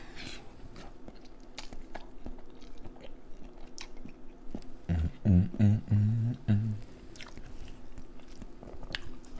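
Close-up chewing and wet mouth clicks of a person eating boiled seafood-boil food. About five seconds in there is a brief run of four or five short, low hums, the loudest part.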